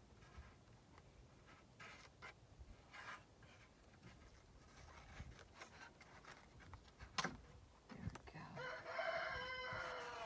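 A rooster crows once near the end, one long call of about a second and a half. Before it there are only faint rustling and tape-handling sounds, with one sharp click about seven seconds in.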